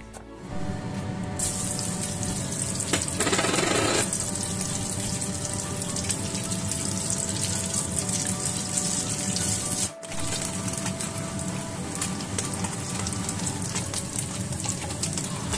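Slices of vegetarian mock chicken sizzling as they half-fry in hot oil in a nonstick pan: a steady hiss, broken by a short dip about ten seconds in.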